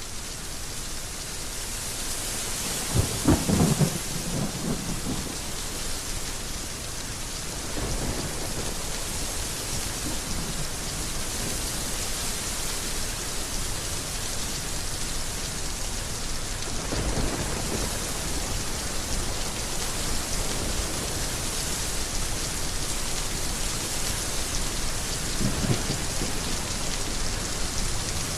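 Heavy rain falling steadily, with rolls of thunder: a loud one about three seconds in and fainter rumbles three more times later.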